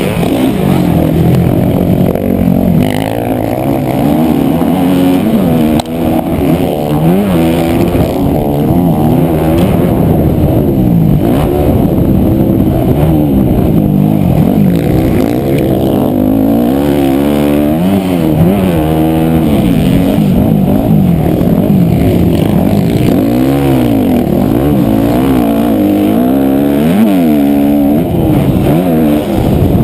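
Motocross dirt bike engine heard up close while riding, revving hard with its pitch rising and dropping again and again as the throttle is worked and gears change around the track.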